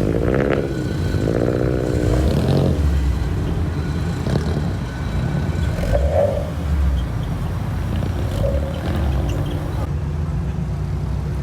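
Car engines running and revving as cars drive out of a parking area, over a steady low rumble of traffic.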